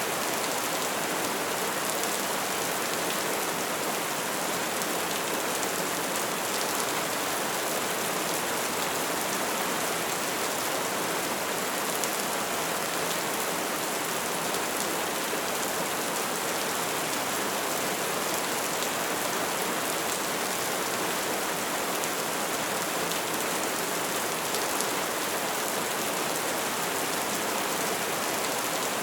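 Wood fire burning with a steady, dense crackle and hiss, small pops scattered throughout.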